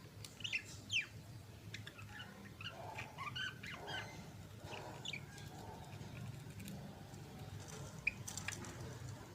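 Budgerigars chattering in short, quick chirps and twitters, with a sharper chirp about a second in and another near the end, over a steady low hum.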